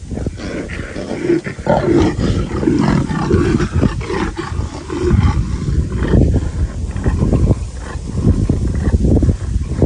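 Two leopards snarling and growling as they fight over food, in harsh, continuous outbursts.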